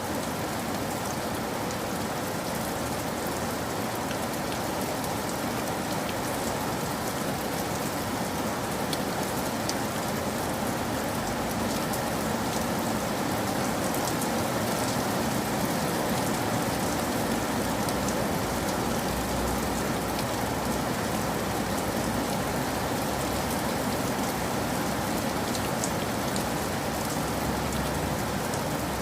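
Steady rain falling, a continuous hiss with many small drop ticks on hard surfaces.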